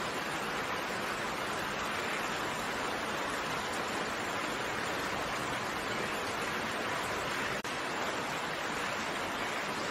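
Steady rain falling, an even hiss without separate drops standing out, with a momentary dip in level about seven and a half seconds in.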